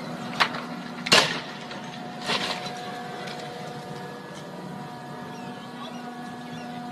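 A steady mechanical hum with three sharp knocks or cracks over it, the loudest about a second in.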